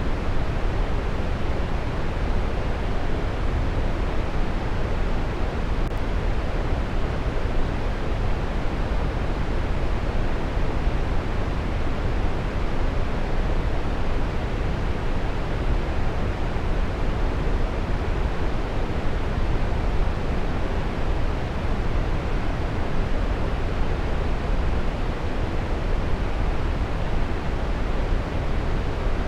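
Waterfall rushing steadily, an even, unbroken wash of water noise that is heaviest in the low end.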